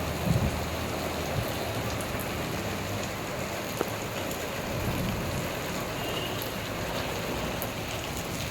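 Heavy rain falling, a steady even hiss of drops on surfaces.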